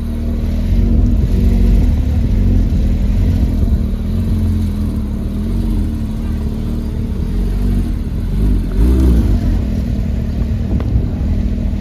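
Car engine running and revving in street traffic, with a short rise and fall in pitch about nine seconds in.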